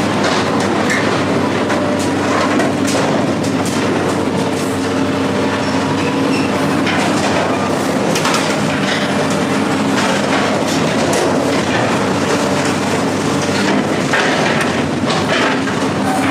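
A heavy engine running steadily, with frequent metallic clanks and rattles over it.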